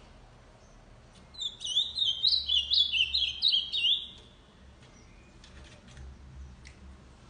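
Ultramarine grosbeak (azulão) singing one song phrase, a quick run of clear, pitch-bending notes lasting about three seconds and starting about a second in.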